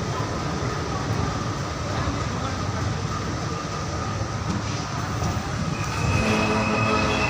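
Train running on the rails: a steady low rumble. About six seconds in, a steady pitched tone joins it.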